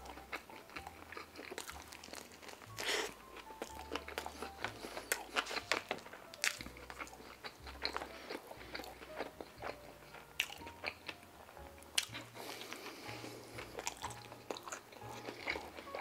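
Close-miked biting and chewing of a fried chicken slider: many sharp crackly clicks from the crust and bun, with wetter chewing between them.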